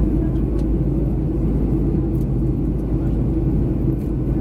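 Steady low rumble of cabin noise inside a Boeing 737-300 airliner in flight: engine and airflow noise, with a few faint clicks.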